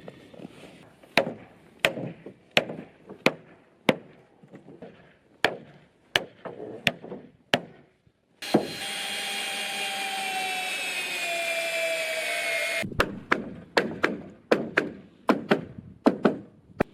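Repeated sharp blows on wood, about one to two a second, then a power tool runs for about four seconds, its pitch sagging slightly as it works, before the blows resume.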